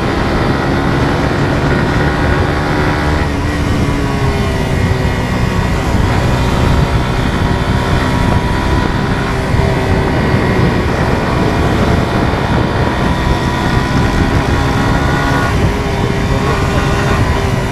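Suzuki GSX-R150's single-cylinder four-stroke engine running under way on the road, its pitch holding steady for stretches. The pitch breaks and shifts about three seconds in and again near the end.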